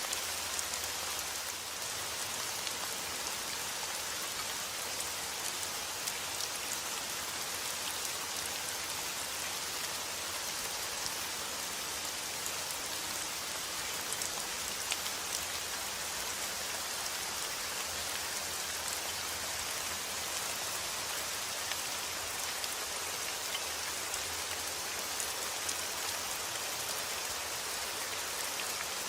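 Steady rain falling, a dense even hiss with the small pattering ticks of individual drops landing on a surface.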